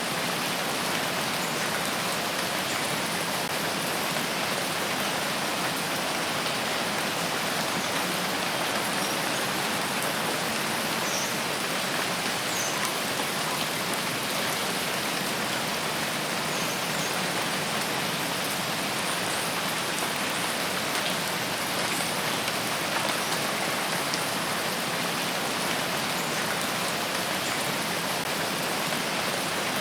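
Steady rain falling in a rain forest, a dense, even hiss of many drops with no let-up.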